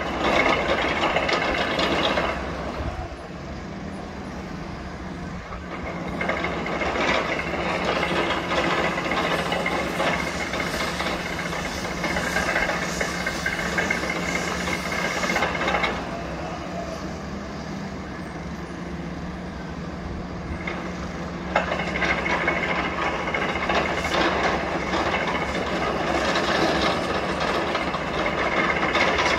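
City and railway noise: a train running on the tracks over a steady traffic hum, swelling and fading in long stretches.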